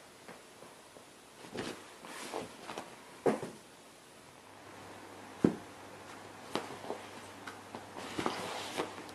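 Irregular knocks, taps and brief rustles, with the sharpest knock about five and a half seconds in.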